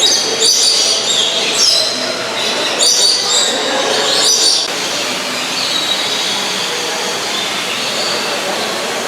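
Parrots screeching harshly in a run of loud, high calls during the first half, then fainter calls over a steady background hubbub.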